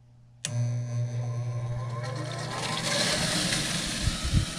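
Gas furnace's draft inducer motor starting with a click about half a second in and running with a steady hum. Water sloshes and gurgles in the inducer and drain as the motor runs, a rough rushing that grows from a couple of seconds in: the sign of a stopped-up condensate drain backing water into the furnace. A couple of low thumps come near the end.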